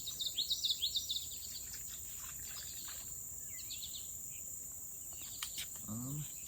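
A songbird chirping in quick phrases, loudest in the first second and then more faintly, over the steady high drone of insects such as crickets.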